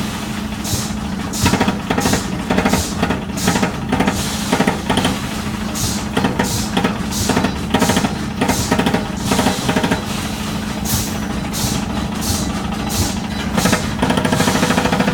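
Stainless-steel mesh end-trimming machine running, its motor humming steadily under repeated sharp metallic clacks as it chops off the excess wire ends. The clatter grows denser and louder near the end.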